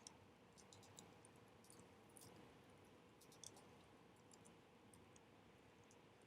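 Wood bonfire crackling faintly: scattered small snaps and pops at uneven intervals over a soft steady hiss.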